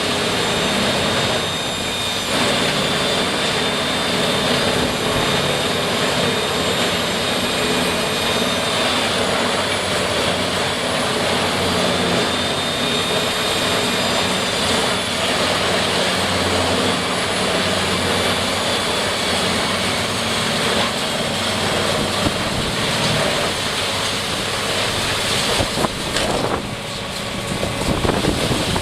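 A heavy wood-processing machine, such as a wood chipper or shredder, running at full power: a loud, steady engine and mechanical din with a high whine over it. It dips briefly near the end.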